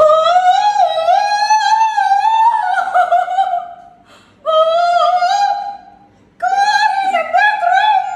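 A single very high-pitched voice singing wavering, operatic-style notes without clear words, in three phrases with short breaks at about four and six seconds in.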